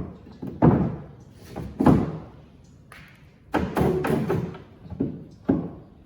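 A series of irregular thuds and knocks, about five or six, each dying away quickly, with a cluster of them close together around the middle.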